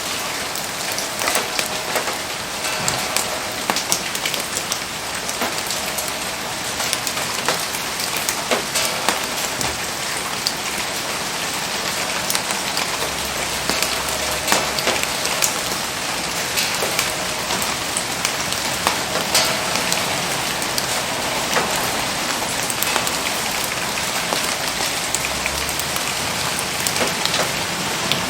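Steady rain falling and hitting surfaces: an even hiss dotted with many sharp drop ticks.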